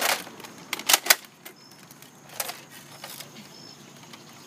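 Plastic toy foam-dart guns clattering and knocking together as they are grabbed off a wicker chair. Several sharp clacks come in the first second and a half, then two more.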